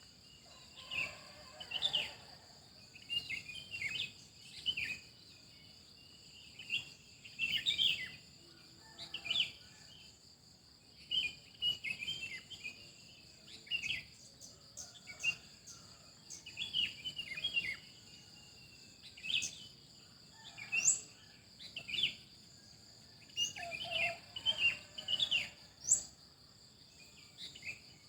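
Songbirds chirping in quick bursts of short calls, with a few sharp rising whistles in the second half. Underneath runs a steady high-pitched insect drone.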